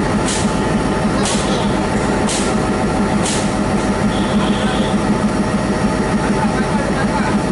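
Locomotive running steadily at standstill with a deep, even hum, while four short hisses of air come about a second apart in the first half, followed by a brief high whine.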